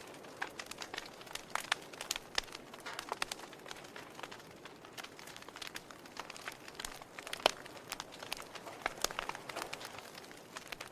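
Wood fire burning in a fireplace: irregular sharp crackles and pops over a soft steady hiss, with one louder pop about seven and a half seconds in.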